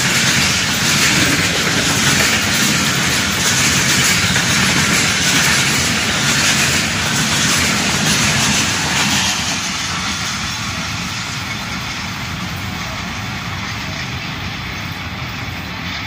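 Passenger coaches of a Pakistan Railways express train passing close at speed: a loud steady rush of wheels on rails with a rhythmic clatter of wheels over rail joints. After about nine and a half seconds the noise drops and keeps fading as the train moves away.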